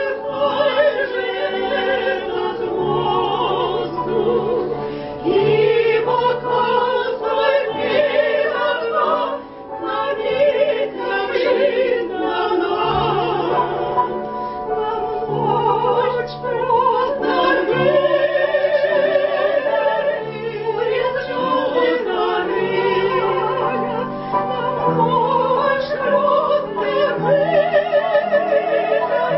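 Classical vocal ensemble singing in operatic style, with strong vibrato on long held notes over a steady low accompaniment.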